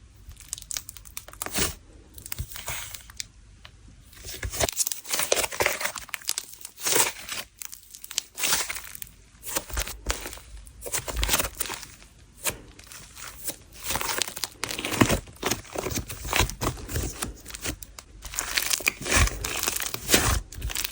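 Hands squishing and stretching a jelly-cream slime: irregular sticky clicks, pops and crackles, sparse for the first few seconds, then coming thick and fast.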